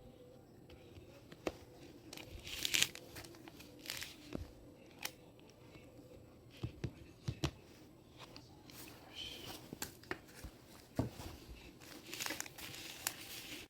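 Handling noises: several short rustles with scattered knocks and clicks in between.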